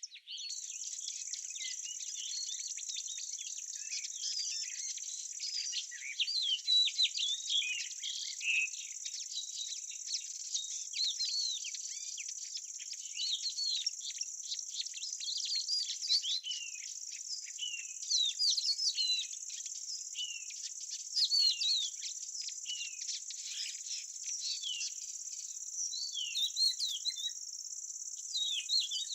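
An outdoor nature ambience: a steady, high insect sound, like crickets, with many small birds chirping rapidly over it throughout.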